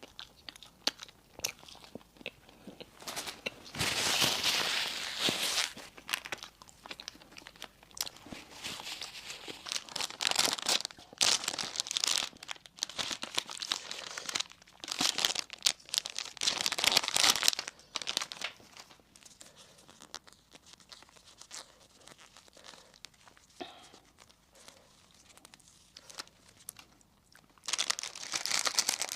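Close-miked eating of crispy sesame-bun burgers and wraps: crunching bites and chewing, with crinkling and tearing in several loud bursts of a second or two between quieter stretches.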